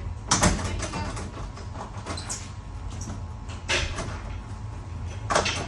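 Short, sudden scrapes and rattles of hands working metal parts, loudest near the start, about two-thirds through and near the end, over a low steady hum.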